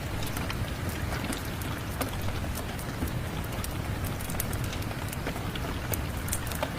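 Steady rain mixed with a wood fire crackling, with sharp irregular pops scattered over the even hiss of the rain.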